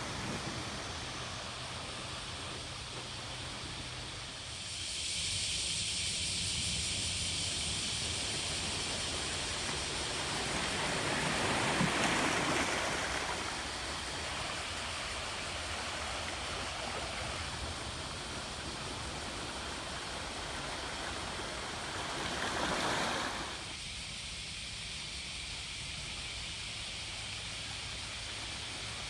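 Sea waves washing onto a rocky shore: a steady wash with two surges, the larger about twelve seconds in and a shorter one about twenty-three seconds in.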